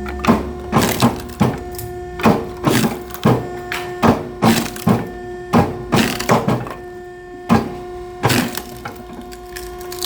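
Chunks of split oak firewood knocking and clattering in quick, irregular succession over a steady machine hum.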